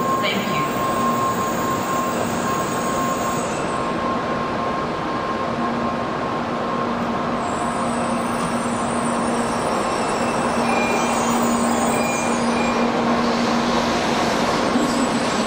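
N700A-series Shinkansen train rolling slowly along the platform and drawing to a stop, a steady running noise with a held tone in it.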